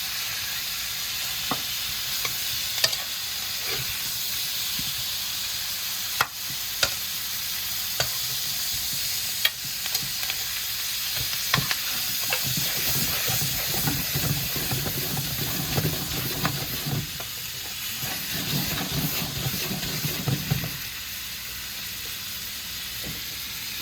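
Smoked turkey necks sizzling in butter in a pot, with a spoon clicking against the pot every second or two as they are stirred and a stretch of heavier stirring in the middle.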